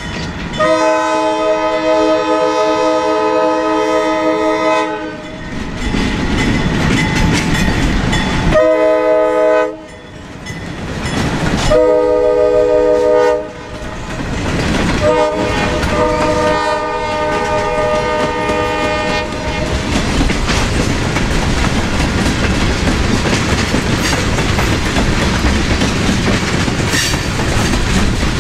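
Diesel locomotive's multi-note air horn sounding for a grade crossing in four blasts, the first and last long, over the rumble of the locomotive. Then a string of freight cars, covered hoppers and tank cars, rolls steadily past with wheels clacking over the rail joints.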